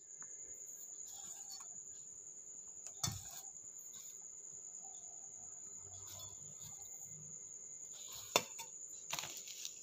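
A cricket trilling steadily in one unbroken high tone, with a knock about three seconds in, a sharp click just past eight seconds, and brief rustling near the end.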